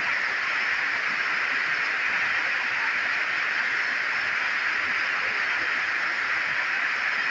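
Heavy tropical rain falling, a dense steady hiss.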